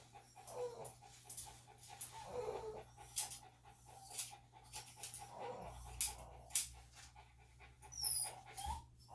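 Dog panting in short breathy bursts, with several sharp clicks standing out above it and a steady low hum underneath.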